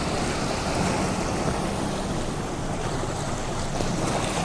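A car driving through deep floodwater: a steady rush of water washing around the body and wheels, over a low engine hum.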